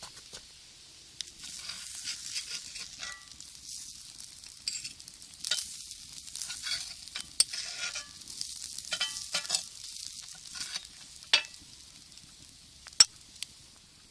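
Food sizzling in a cast-iron skillet, with a metal utensil scraping and tapping against the pan in irregular strokes, and one sharp click near the end.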